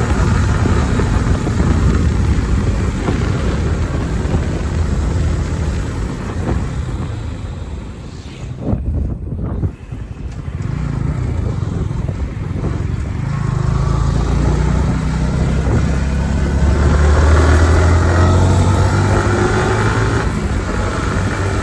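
Kawasaki ZX10R's inline-four engine with stock exhaust, running on the move with a rough rumble of wind on the microphone. The sound briefly drops away about nine seconds in, then a steady, stronger engine note builds through the second half.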